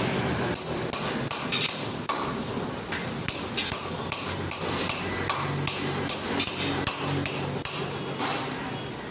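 Hand hammer striking metal steadily, about three blows a second, driving a new bearing into place on a truck gearbox shaft; the blows stop shortly before the end.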